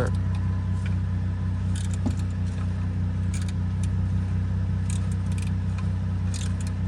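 Short, scattered metallic clicks and rattles of hand tools on the underbody cover bolts of a Jeep Liberty, over a steady low mechanical hum.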